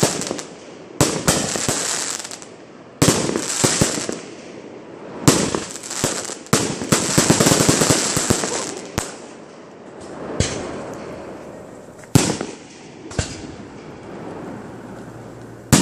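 Fireworks display: aerial shells bursting with sharp bangs every second or two, each followed by crackling. The crackle is densest near the middle, and the bursts thin out toward the end.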